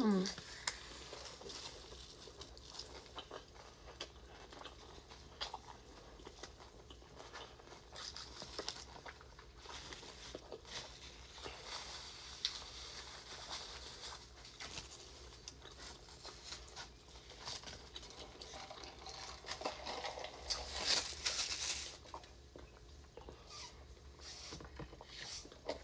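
A person chewing a chicken wrap close to the microphone: soft, scattered chewing and mouth clicks, louder for a stretch about twenty seconds in.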